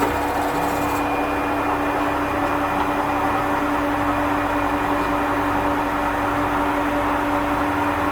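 Workshop machinery running with a steady, even hum and a constant tone.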